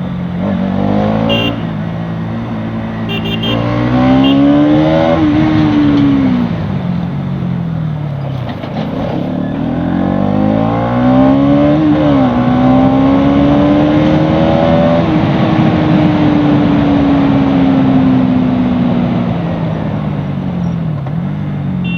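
Bajaj Pulsar NS200's single-cylinder engine under acceleration: its pitch climbs and drops sharply at upshifts about five and twelve seconds in, then holds high and slowly eases off before another drop near the end, over steady wind and road rush.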